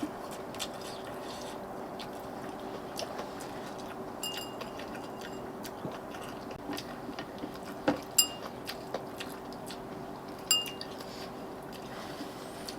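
Quiet eating sounds: chewing, with scattered clicks of utensils on dishes and three sharper ringing clinks, under a faint steady hum.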